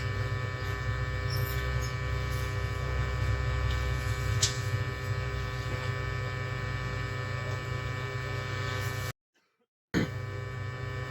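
Steady electrical mains hum and buzz from the workbench equipment, with a couple of sharp clicks. About nine seconds in the sound cuts out completely for under a second, then the hum resumes.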